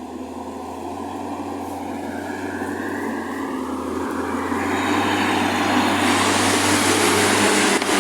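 UAZ-452 'bukhanka' van driving toward the listener, its engine and tyre noise growing steadily louder as it approaches.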